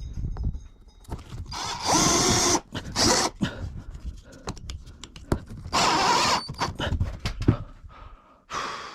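Handling noise from work on plywood ceiling panels: several bursts of scraping or rustling, each about a second long, with scattered knocks and clicks between them.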